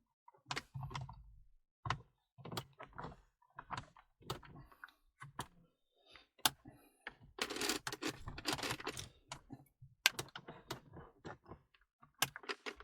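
Plastic clips of a car's dashboard trim panel clicking and knocking as the panel holding the air vents is pressed back into place by hand: a run of irregular light clicks, with a stretch of rubbing plastic about halfway through.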